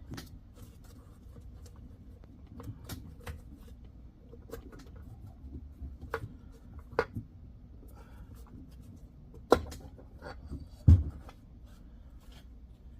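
Light clicks and taps of metal engine parts being handled during a Polaris Sportsman 850 piston teardown, with a few sharper knocks in the second half, the loudest a dull thud about eleven seconds in.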